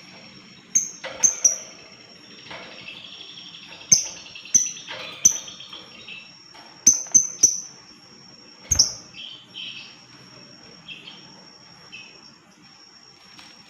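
Lovebirds calling: about ten loud, sharp, piercing chirps at irregular gaps, some in quick pairs and triplets, with softer chatter between them. A steady, thin, high-pitched tone runs underneath.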